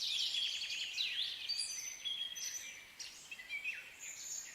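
Birds singing: a busy mix of quick chirps, short trills and high whistles from several birds.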